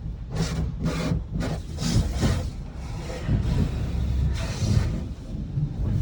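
Automatic car wash heard from inside the car: a steady low rumble with a quick run of swishing sweeps across the car body in the first two and a half seconds, and another sweep a little before the end.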